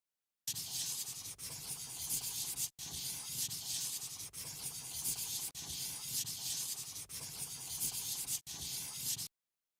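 A coloring tool scratching across paper in quick back-and-forth strokes as a picture is colored in. It starts about half a second in and stops just after nine seconds, with two brief breaks.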